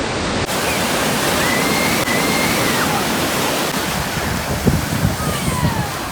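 Steady rushing noise of wind and breaking surf at the seashore, with a few faint thin calls over it and a couple of soft low knocks near the end.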